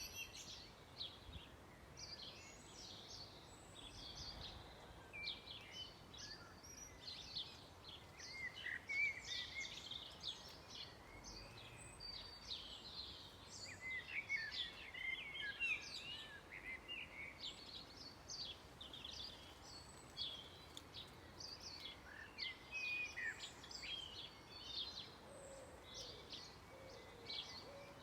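Dusk chorus of several songbirds: many short, overlapping chirps and trills, fairly faint, with a lower wavering call joining near the end.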